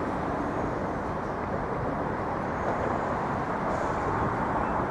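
Steady rumble of city traffic noise, an even background din with no single event standing out.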